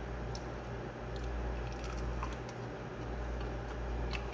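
A person chewing food with the mouth closed: soft, wet squishing mouth sounds with a few faint clicks, over a steady low hum.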